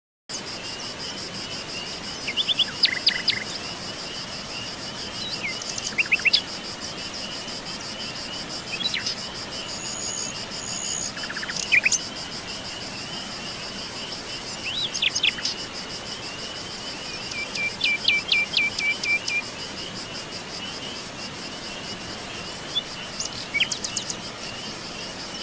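Several small birds chirping and singing in short, scattered phrases, one with a quick run of repeated notes a little past halfway, over a steady high-pitched chorus of crickets.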